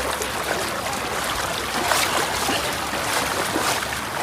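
Floodwater rushing: a steady, full rush of flowing water.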